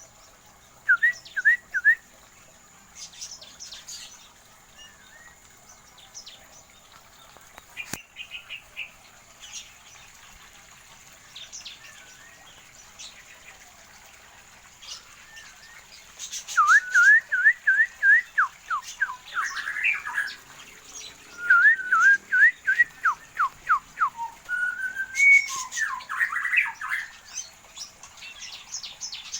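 Small cage birds in an aviary calling: runs of quick downward-sliding whistled notes, with scattered chirps. The calls are sparse at first and become busy, with several birds calling together, from about halfway through.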